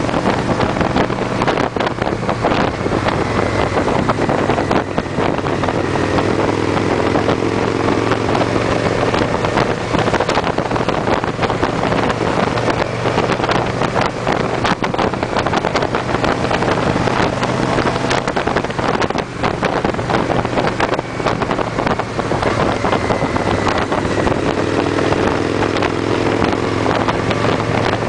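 Victory V-twin motorcycles cruising in a group at steady speed, their engines droning under heavy wind noise on the microphone. The engine note rises briefly twice, once about a fifth of the way in and again near the end.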